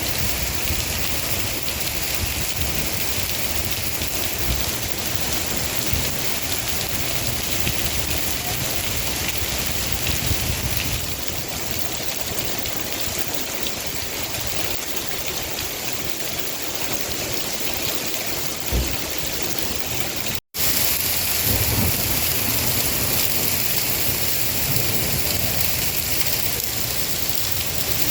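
Heavy rain falling steadily, an even hiss. It breaks off for an instant about two-thirds of the way through and comes back a little louder.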